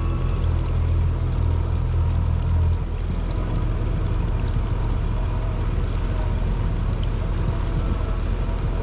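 Jet ski engine running under way, with rushing water and wind noise. The deep engine rumble eases about three seconds in, as if the throttle was backed off.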